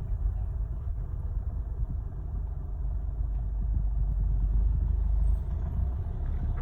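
Low, steady vehicle engine rumble, heard from inside a car, swelling slightly about five seconds in and then easing back.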